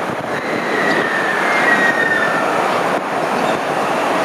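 Train running along the platform with steady wheel and rail noise. A faint high squeal, falling slightly in pitch, rides over it for about a second and a half.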